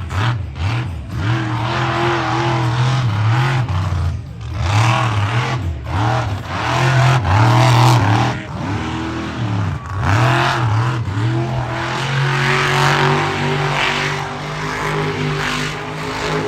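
Engine revving hard again and again, its pitch climbing and dropping in quick waves, then held at a steadier, higher note about three quarters of the way through.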